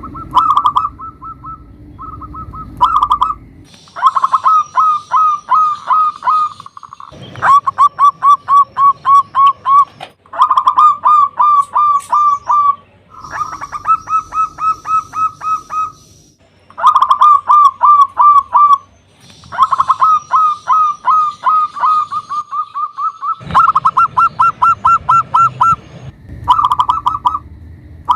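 Zebra dove (perkutut) cooing loudly in repeated bouts, each a quick run of short, pulsing coo notes lasting one to three seconds, separated by brief pauses.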